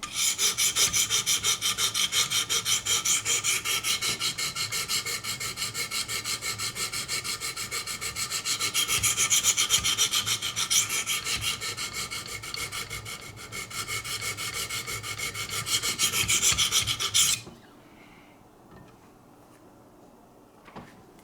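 Diamond stones of a Wicked Edge guided sharpener being stroked rapidly and evenly across a D2 steel knife blade: a continuous gritty scraping of quick repeated strokes. It stops abruptly about 17 seconds in.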